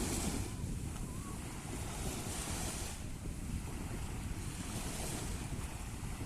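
Sea waves washing in, the hiss of each wave swelling about every two and a half seconds, over a steady low rumble of wind buffeting the microphone.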